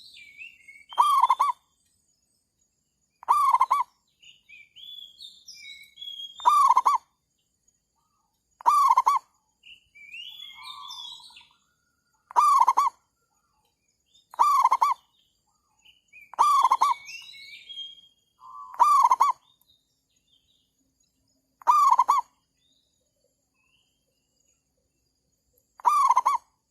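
Zebra dove (merbuk) cooing: about ten short, rippling coos, repeated every two to four seconds, with fainter high chirps from other birds between them.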